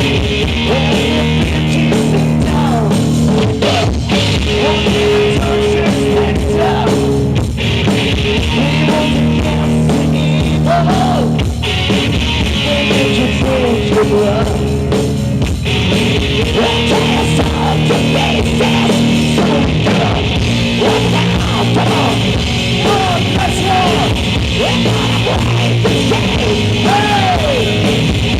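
Live rock band playing loudly with distorted electric guitars, bass and drum kit, and a singer's voice over it.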